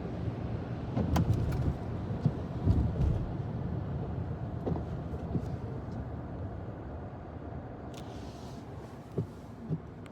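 Low rumble of a motor vehicle or road traffic, slowly fading toward the end, with a few light clicks and knocks.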